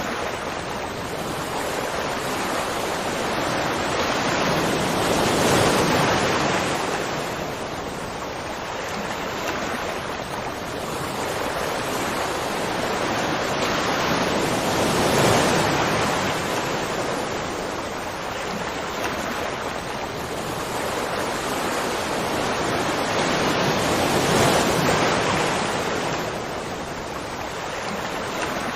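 Rushing, splashing water making a dense, steady roar that swells and eases about every nine seconds.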